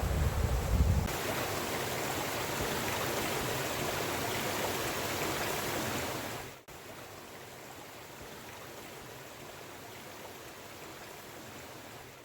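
Steady rushing noise like running water, with a low wind rumble on the microphone in the first second; it cuts off suddenly about halfway through to a quieter, similar rush.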